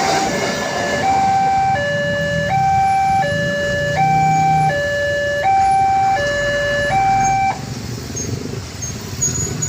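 Railroad level crossing warning alarm sounding its electronic two-tone signal, alternating high and low about every three quarters of a second, then cutting off suddenly about seven and a half seconds in as the crossing clears.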